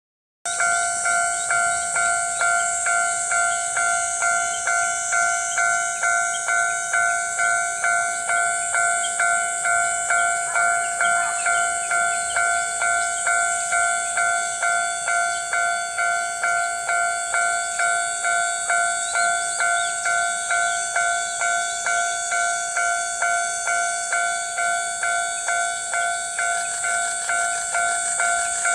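Japanese railway level-crossing warning bell ringing steadily, about two strikes a second, each strike fading before the next.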